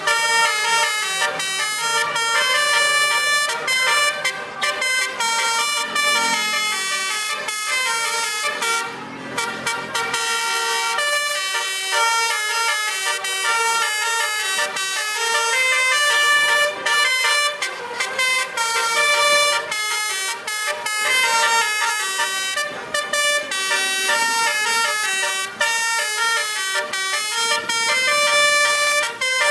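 Truck's basuri multi-trumpet air horn playing a tune, its notes stepping up and down with only short breaks.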